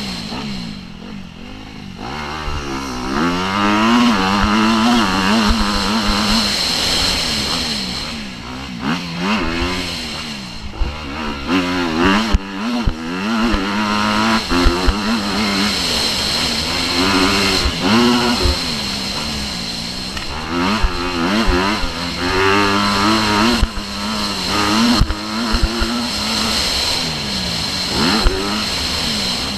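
Motocross bike engine revving hard, its pitch climbing and dropping again and again as the rider opens and closes the throttle, with scattered short knocks throughout.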